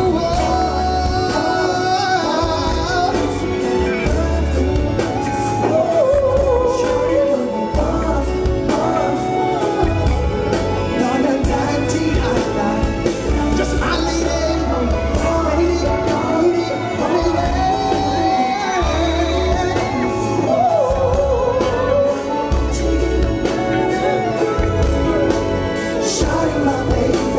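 Live K-pop performance: singing over a heavy bass beat, with the bass pulses dropping in and out.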